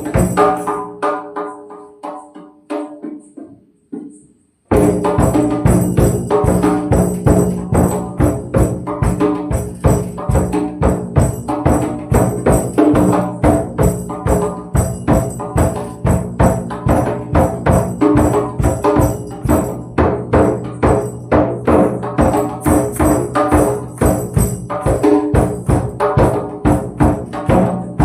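Tambourine jingles struck in a steady quick beat over a sustained low ringing tone. Earlier strikes die away over the first few seconds, then the beat cuts in suddenly about five seconds in.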